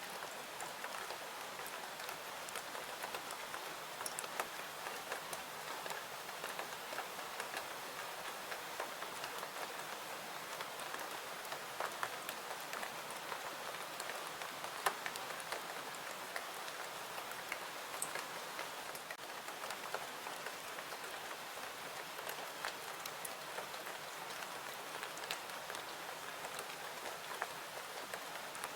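Steady rain falling, with many scattered sharp clicks through it.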